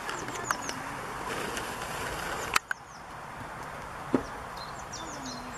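Rural outdoor ambience: a small bird repeating quick, high, downward-slurred chirps on and off over a steady background noise, with a few light knocks and a sharp click about two and a half seconds in.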